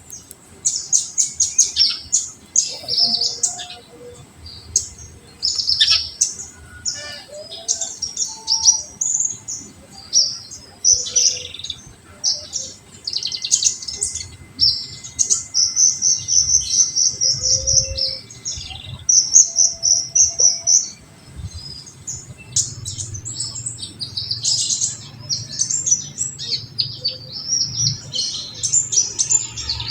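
Kolibri ninja, a small sunbird, singing a fast, high-pitched song of rapid chirps and twitters, with a few longer held trills in the middle.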